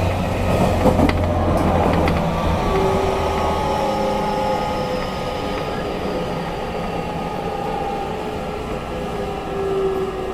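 813-series electric train's motor car slowing into a station: the inverter and traction motor tones fall slowly in pitch under braking, over the running noise of the car. A low hum cuts out about four seconds in, and there are a few clicks near the start.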